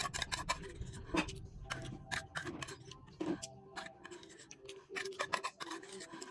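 Chewing and crunching vegetables: a quick, irregular run of crisp crunches, several a second.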